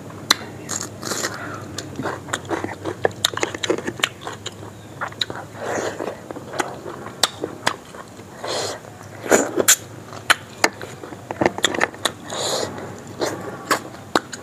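A person chewing a mouthful of rice and chicken curry, with many sharp lip smacks and mouth clicks and a few short wet sucking sounds.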